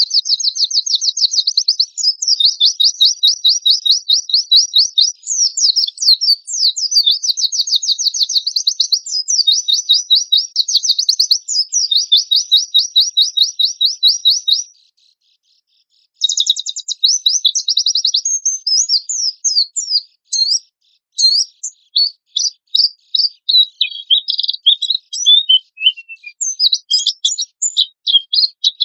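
Recorded song of a white-eye (pleci): long runs of rapid, harsh high-pitched trills, broken by a short pause a little past halfway, then quicker, more scattered chirps and twitters.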